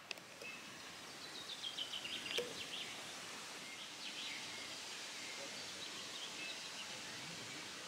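Small birds chirping over a steady outdoor background hiss, with a quick run of high chirps about a second and a half in and a sharp click near the start.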